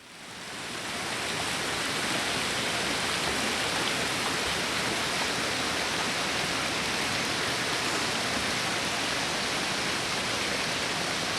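Torrential rain falling in a heavy downpour: a steady, loud hiss that fades in over the first second or so.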